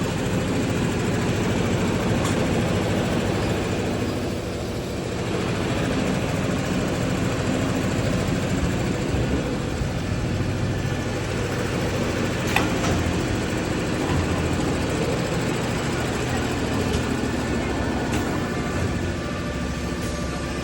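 Mattress-making machinery running steadily with a dense mechanical clatter and low hum, and a single sharp click about halfway through.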